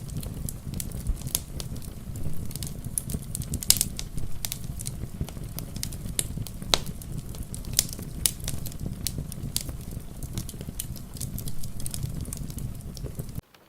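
Wood fire crackling, with irregular sharp pops and snaps over a steady low rumble. The sound cuts out for about half a second near the end.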